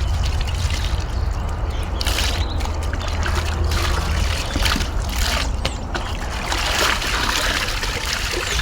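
Rain falling steadily, with water trickling and splashing.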